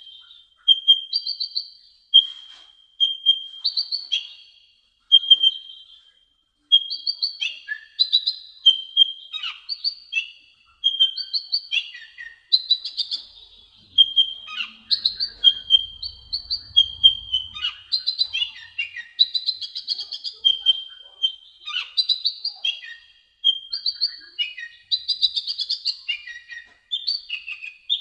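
Sunbird singing: a continuous run of high, rapid chirps and short trills, broken up by a repeated short steady whistled note.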